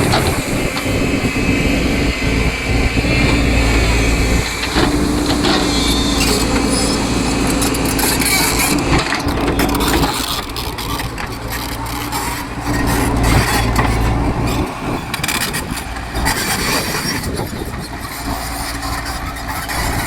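Tracked excavator's diesel engine working under load while digging and loading soil, swelling and easing in loudness every few seconds, with scattered knocks and rattles.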